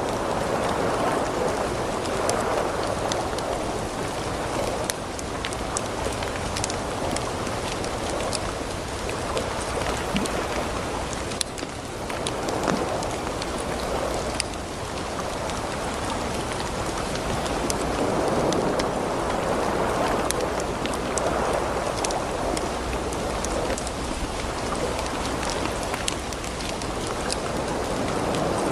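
Ocean waves washing in slow swells every few seconds, layered with a wood fire crackling with many small, sharp pops.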